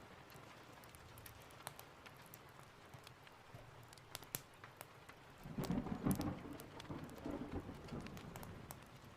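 Steady rain with scattered sharp ticks and crackles, and a rumble of thunder that swells about five and a half seconds in and dies away over the next two or three seconds.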